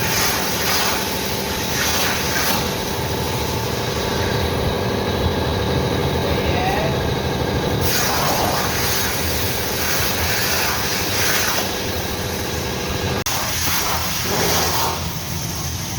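Steady machinery running, with a few short bursts of hissing.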